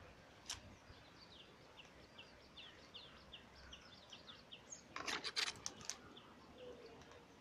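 Faint bird chirping: a run of short, high, downward-sliding chirps repeated about three or four times a second for roughly three seconds, followed about five seconds in by a brief cluster of sharp clicks.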